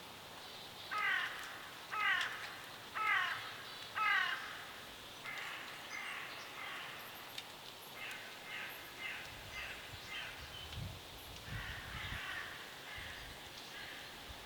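A bird gives four loud, harsh calls about a second apart, each falling in pitch, followed by a run of softer, quicker calls.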